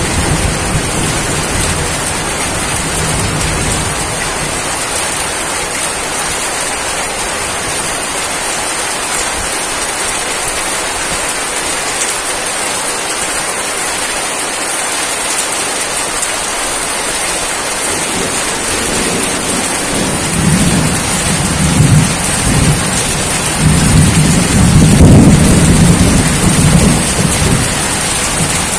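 Steady heavy rain falling on surfaces, with rolling thunder rumbling in the second half, loudest about two thirds of the way through.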